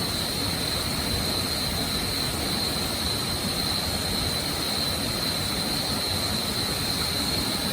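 Steady rushing roar of a waterfall, with a constant high-pitched whine above it.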